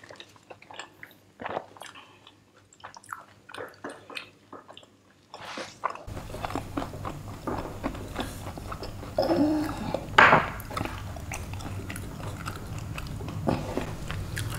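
Close-miked mouth sounds of a person chewing and biting food: a run of small wet clicks and crunches. About six seconds in a steady low hum comes in underneath, and near ten seconds there is a short louder sound.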